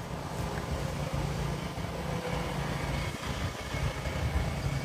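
Jet airliner engines running, a steady low rumble.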